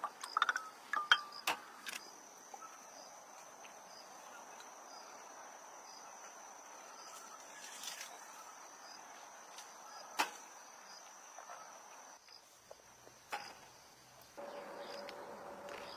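Insects chirring in a steady high-pitched trill that breaks off briefly near the end. There are a few light clinks and clicks in the first two seconds, and single sharp clicks later on.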